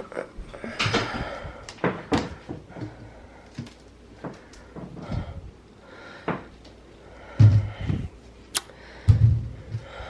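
Bottles and containers of cleaning products and bug spray being moved around on a shelf: a run of separate clunks and knocks, with two heavier thumps near the end.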